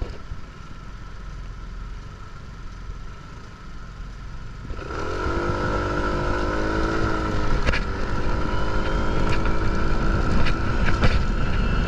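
Motorcycle engine running low and quiet, then about five seconds in it revs up and pulls away, the engine note rising and then holding steady, with wind rumbling on the microphone.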